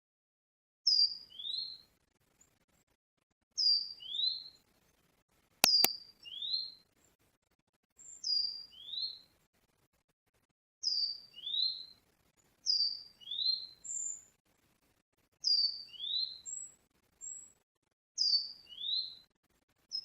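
A bird repeating a two-note call about every two and a half seconds: a short high note falling away, then a lower note sliding upward. A pair of sharp clicks comes about six seconds in.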